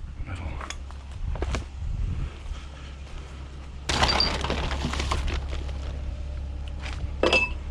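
Discarded items being rummaged through and handled: scattered knocks and clatter, a louder burst of rattling noise about four seconds in that fades over a second or so, and a sharp knock near the end, over a steady low hum.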